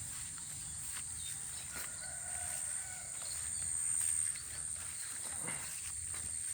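Rural outdoor ambience dominated by a steady, high-pitched insect drone that swells briefly about four seconds in. A few faint short calls come in the middle, over a low steady rumble.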